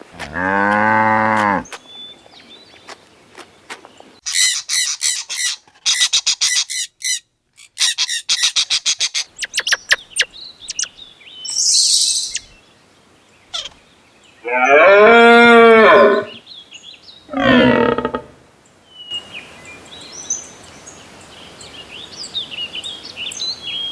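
A series of animal calls. A bovine gives a low, drawn-out call near the start and again about 15 seconds in, with a shorter call soon after. Between them is a fast, dry, high clicking chatter, and small songbird chirps come near the end.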